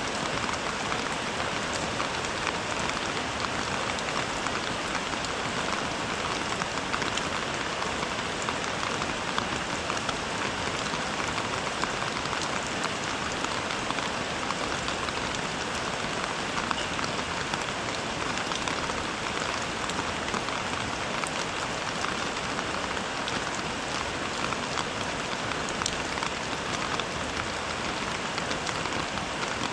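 Steady rain, a dense, even patter of falling drops with fine individual drop ticks throughout.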